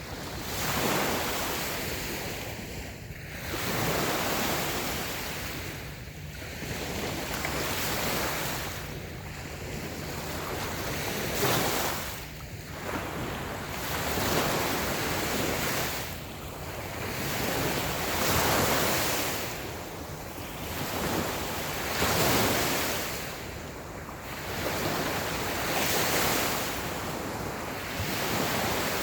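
Small waves breaking and washing up a sandy beach, each wave swelling and fading in turn, about one every two to three seconds.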